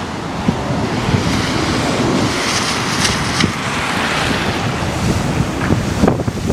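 Storm surf breaking and washing against the shore, its hiss swelling in the middle, with strong wind buffeting the microphone.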